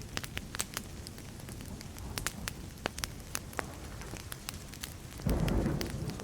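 Wood fire crackling, with many sharp pops and snaps over a steady hiss. About five seconds in, a short low rumble of distant thunder rises above it.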